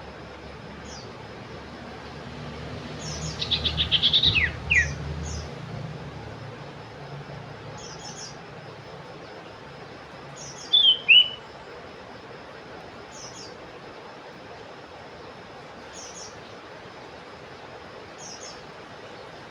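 Common iora (cipoh) calling. About three seconds in there is a fast trill ending in two falling whistled notes, and near eleven seconds a loud two-note falling whistle. Faint short high chirps repeat every two or three seconds throughout.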